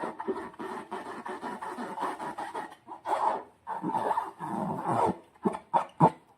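Slime being squeezed and worked by hand: continuous wet squelching and crackling of small air pockets, breaking into a few separate sharp pops near the end.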